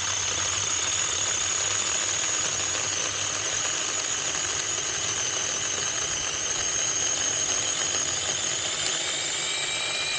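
SeeSii cordless battery chainsaw running at full speed with a steady high motor-and-chain whine as it cuts through a thick piece of wood.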